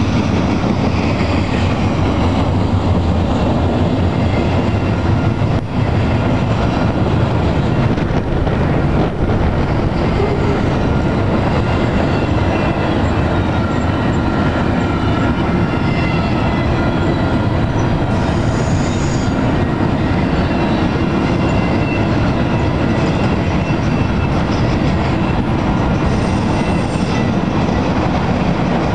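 Double-stack intermodal container train rolling steadily past: a continuous loud rumble and rattle of the well cars' wheels on the rails, with faint high wheel squeal coming and going.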